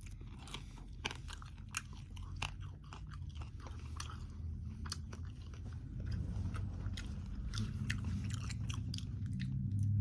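Close-up chewing of air-fried Hormel Black Label center cut bacon: a run of small sharp crackles as it is bitten and chewed, over a low mouth rumble that grows louder in the second half.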